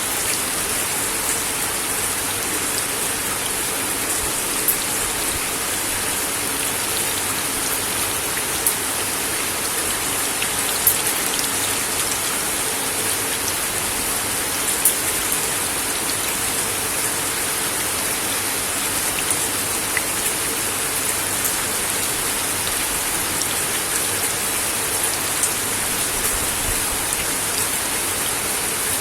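Steady rain falling on a wooden deck: a dense, even hiss of drops with a few louder single drop hits standing out here and there.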